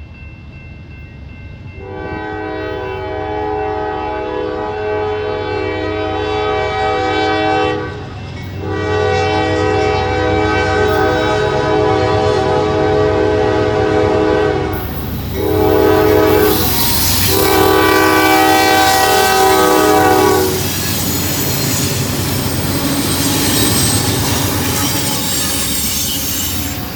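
Diesel freight locomotive's multi-note air horn sounding the grade-crossing signal: long, long, short, long, over the low rumble of the engine. After the last blast the train rolls past with wheels clacking on the rails.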